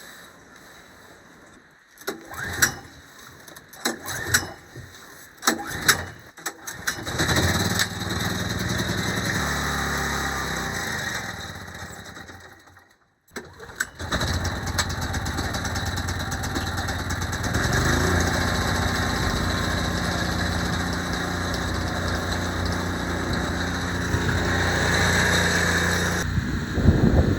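Generator engine: a few knocks and clicks, then the engine starts about seven seconds in and runs steadily. It goes quiet for about a second near the middle, then is running steadily again.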